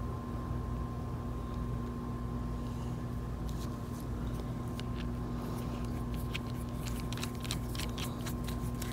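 Small clicks and taps of brass air fittings being handled and threaded onto the brass end of an air hose, starting about three and a half seconds in, over a steady background hum.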